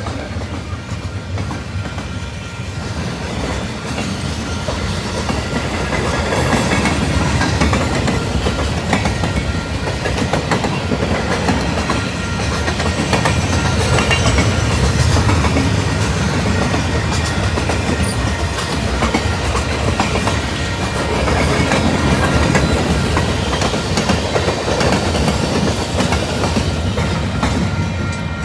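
A train's cars rolling past on the rails, with a steady rumble and a dense run of wheel clicks over the track, and faint steady squealing tones above.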